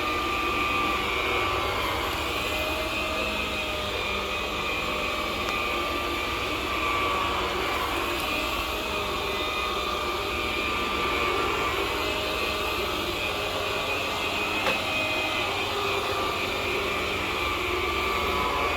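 MD central vacuum running with an Electrolux power nozzle's brush motor switched on: a steady rush of suction air with a faint whine that wavers slightly in pitch. A single short click about three-quarters of the way through.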